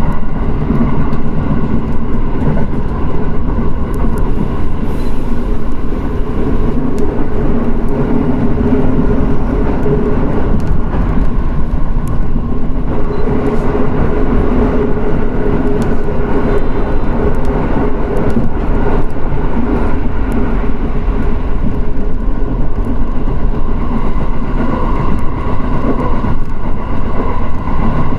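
Electric train running between stations: a steady rumble of wheels on rail, with a humming tone that wavers slightly in pitch and faint scattered clicks.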